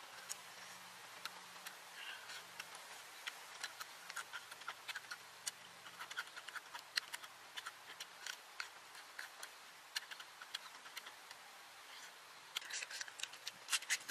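Close-up eating sounds of someone biting and chewing raw cucumber: irregular crisp crunches, several a second, coming thicker near the end, over a faint low hum.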